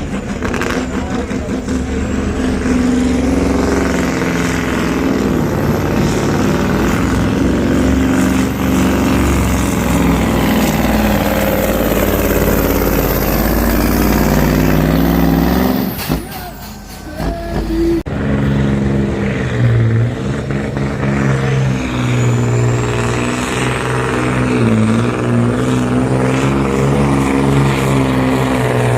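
Diesel engines of supersport pulling trucks running hard under load down the track. The first run fades about 16 seconds in, and about two seconds later a second truck is heard running flat out. A thin high whistle sits over the engine sound.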